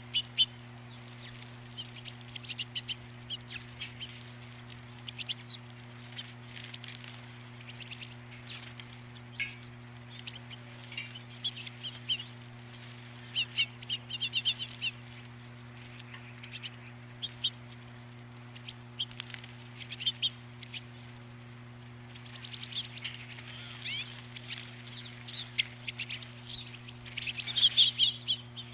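Small birds chirping and calling in short scattered notes, busiest near the end, over a steady low hum.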